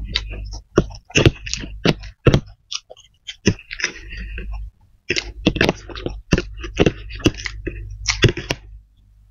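Close-miked chewing of spicy fried flat rice noodles (kwetiau goreng), with irregular short clicks of forks tapping and scraping in the baking dish.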